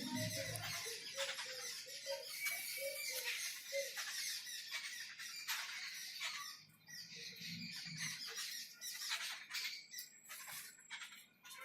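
Birds chirping: many short, high chirps overlapping, with a run of lower notes repeating about twice a second in the first few seconds.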